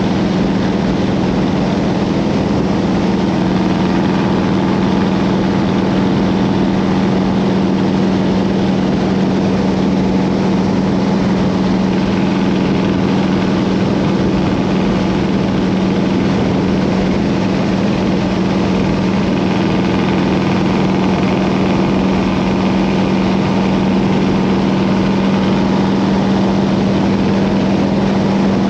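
Harley-Davidson Road King's V-twin engine running steadily while riding, a constant low drone with no change in pitch.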